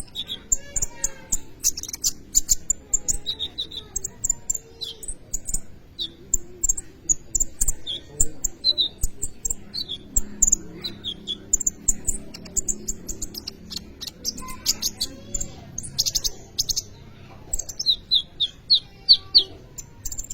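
Kolibri ninja sunbird singing without pause: a fast, dense run of high, sharp chirps and short trills, a full 'gacor' song of the kind used to lure or tutor other birds.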